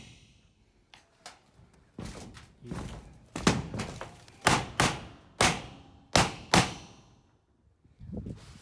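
Hammer blows on a loosened roofing screw, knocking it back down: a run of about nine sharp strikes in uneven groups, then a short pause, then more strikes near the end.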